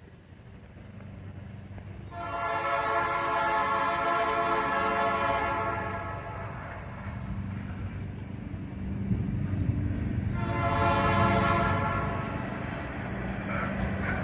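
Diesel locomotive horn sounding two blasts, a long one of about four seconds and then a shorter one of about two and a half seconds. Under both is the steady low rumble of the locomotive's diesel engine.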